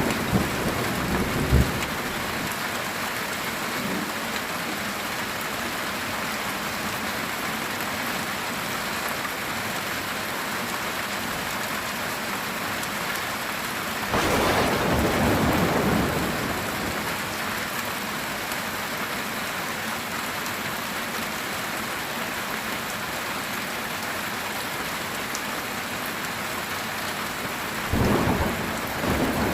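Heavy rain drumming steadily on a metal roof, with rolls of thunder: a rumble fading out in the first couple of seconds, a louder roll about halfway through lasting a couple of seconds, and another starting near the end.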